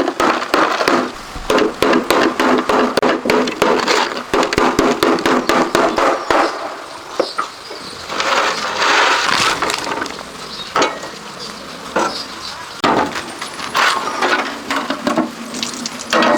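Hand-tool repair work: rapid tapping and knocking for several seconds, then spells of scraping or filing.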